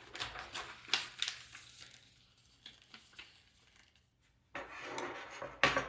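Small robot-kit parts being handled on a work surface: a few light clicks and rustles, a pause, then a rough scraping rustle about two-thirds in that ends in a sharp knock.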